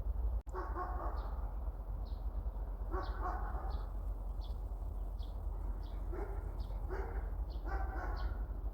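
A dog barking in several short bouts, with a small bird repeating a short high chirp about every half second or so, over a steady low rumble.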